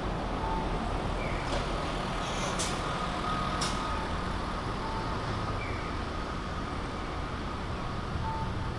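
City street ambience: a steady low traffic rumble, with a pair of short beeps recurring every few seconds and a few sharp clicks about two to four seconds in.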